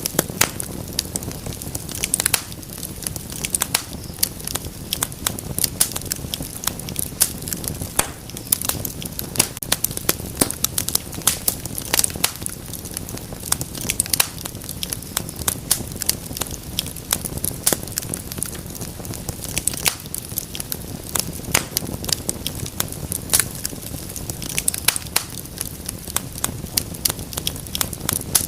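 Wood fire crackling in a fireplace: many sharp pops and snaps over a steady low rush of burning.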